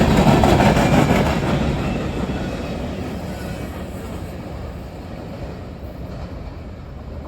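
A short freight train's cars rolling past on the rails, with rapid wheel clicks over the track at first, then the rumble fading steadily as the train moves away.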